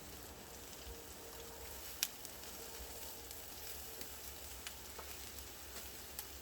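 Marinated pork belly sizzling on a grill over a wood-fire brazier: a faint steady hiss with scattered small pops, one sharper pop about two seconds in.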